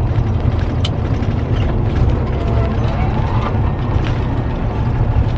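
Semi truck cab noise on the move: a loud, steady low engine drone with rattling and a few sharp clicks from the cab.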